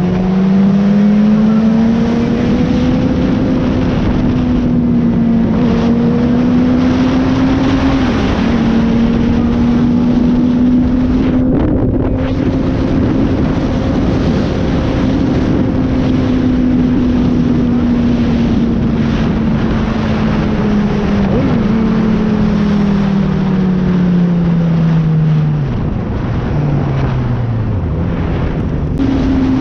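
Sport bike engine revving hard on track, heard onboard under heavy wind rush. The pitch climbs and holds high, with a few quick dips at gear shifts, then falls away with stepped downshifts near the end as the bike slows.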